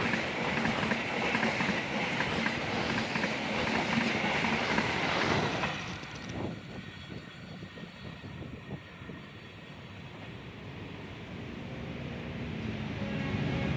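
A train passing close by on the line, its wheels clattering over the rails. The noise drops away suddenly about six seconds in as the train clears, then a steady rumble builds again near the end.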